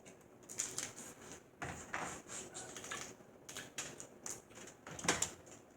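Irregular clicking and crackling of snow crab legs being handled, their hard shells snapping and knocking, loudest about half a second in and again near the end.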